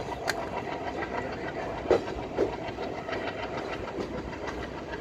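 Train running along the track: a steady rumble and rattle with wheels clacking over the rail joints, and a couple of louder knocks about two seconds in.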